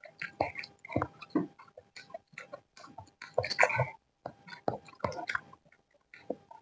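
Close-miked chewing of a mouthful of kampung fried rice: wet mouth clicks and bites in irregular bursts, loudest about three and a half seconds in, over a faint steady hum.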